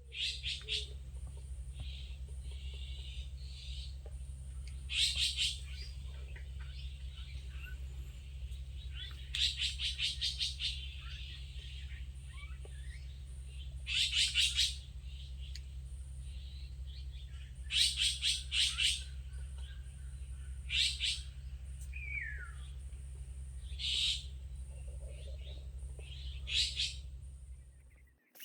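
Birds chirping in short, rapid bursts every few seconds, over a steady low hum and a thin, steady high tone.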